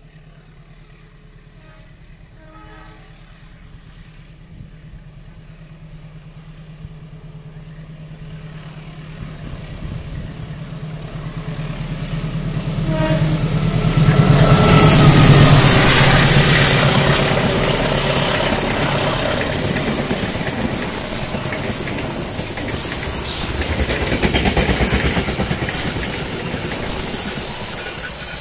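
A CC203 diesel-electric locomotive hauling a passenger train approaches and passes close by. Its engine drone and the rail noise build slowly for about fourteen seconds to a peak as the locomotive goes by. Then the coaches roll past with a steady rush of wheels on rail, swelling again briefly near the end.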